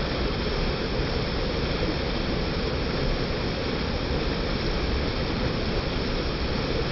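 Mountain creek rushing steadily over rocks, a constant full roar of water with much of its weight at the low end.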